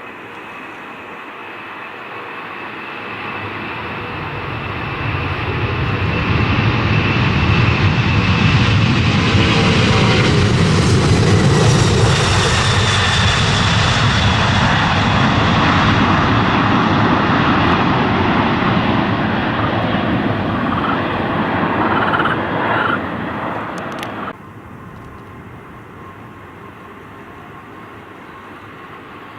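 Airliner passing close by: the engine noise swells over several seconds to a loud, steady rush with a faint whine, then cuts off abruptly about 24 seconds in, leaving quieter background noise.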